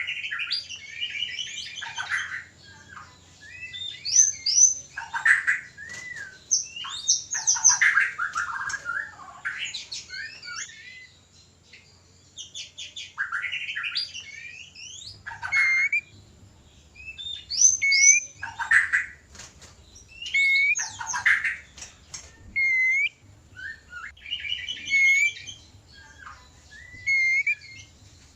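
White-rumped shama (murai batu) singing mating calls: bursts of varied whistled phrases, fast chattering trills and harsher notes, broken by short pauses. Later bursts include repeated clear upward-slurred whistles.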